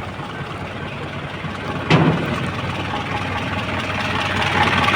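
Isuzu 4HL diesel engine idling, running again after its injectors were calibrated to cure a no-start. A single sharp knock about two seconds in, and the engine gets louder near the end.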